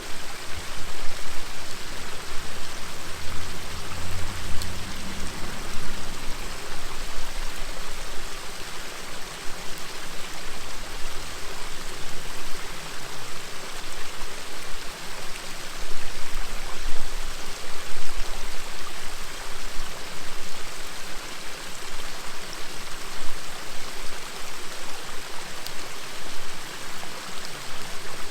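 River murmuring steadily, with a few faint crackles from a campfire.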